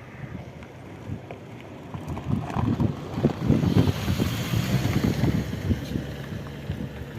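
Wind buffeting the microphone in uneven gusts, growing stronger partway through and easing near the end.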